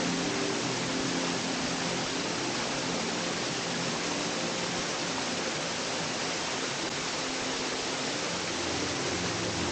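Waterfall cascading down a small brook: a steady, even rush of falling water.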